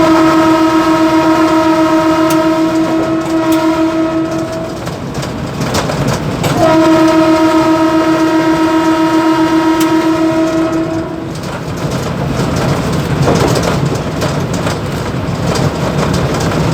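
Mumbai local EMU train's horn sounded in two long blasts of about five seconds each, a couple of seconds apart, holding a steady pitch. The train's running rumble continues underneath.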